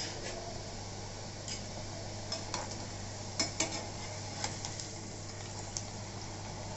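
Gram-flour shev frying in hot oil in a kadhai, a steady sizzle. A perforated metal slotted spoon clicks and scrapes against the pan several times as the strands are stirred and turned.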